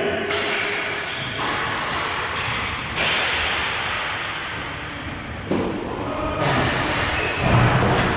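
Echoing game noise in a large hall: thuds of play over a noisy din that jumps up abruptly several times.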